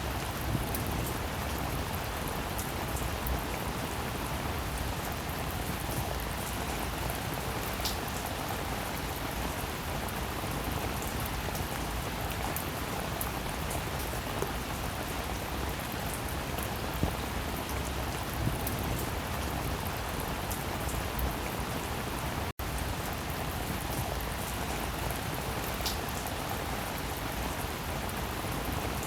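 Steady rain falling, a dense even hiss with scattered drops ticking. It cuts out for an instant about two thirds of the way through, then carries on unchanged.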